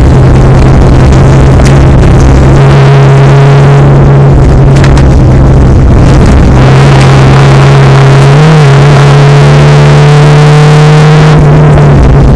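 Race car engine heard from inside the cockpit, running hard with a fairly steady note. It is loud enough to overload the recording.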